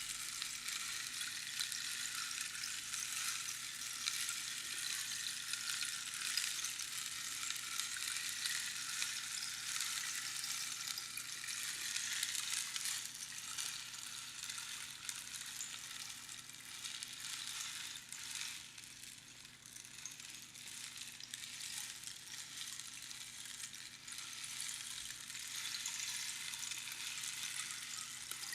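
Rainstick sounding: its filling trickles down through the tube in a steady, fine patter like falling rain. The patter thins out about two-thirds of the way through, then builds again near the end.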